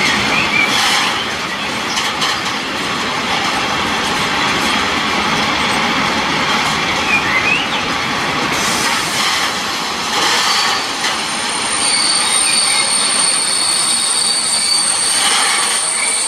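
Container freight train rolling past on its flat wagons, a steady rumble of wheels on rail with occasional clacks over rail joints. Short wheel squeaks come in a couple of times, and a steady high-pitched wheel squeal sets in about two-thirds of the way through.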